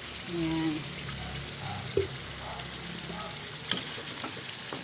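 Chicken pieces sizzling steadily in a frying pan after being seasoned with fish sauce. A soft knock comes about two seconds in and a sharp click, the loudest sound, a little after three and a half seconds.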